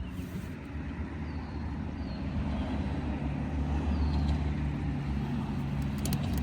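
An engine running steadily with a low hum that gets louder a few seconds in, with short high chirps of birds over it.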